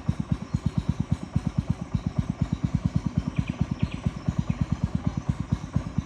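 Small boat engine running at a steady speed, a low even putt-putt of about eight beats a second.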